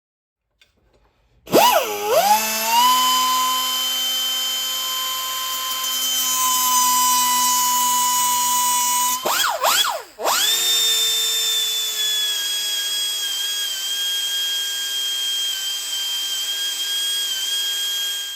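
Small electric power tool motor running with a steady whine. It winds up about a second and a half in, briefly slows and starts again around nine seconds, then runs on at a steady speed until it stops suddenly.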